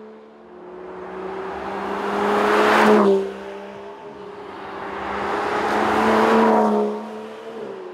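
Aston Martin DBS Superleggera Volante's twin-turbo V12 engine passing by twice at speed. The engine note builds to a peak about three seconds in and drops in pitch as the car goes past, then builds again to a second pass-by that fades near the end.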